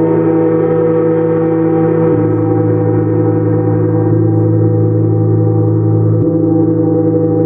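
Gong played continuously, a dense sustained wash of many overlapping tones. Soft mallet strokes renew it about every two seconds.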